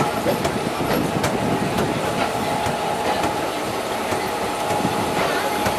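Indian Railways express train coaches rolling out of a station, heard from inside a coach: a steady running rumble with a constant tone, and sharp irregular clicks of the wheels over rail joints.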